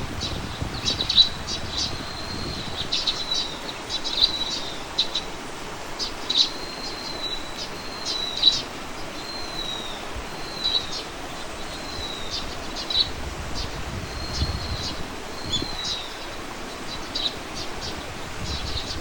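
Small songbirds chirping and twittering: many short high chirps and brief sliding whistles, some rising and some falling, kept up without a break.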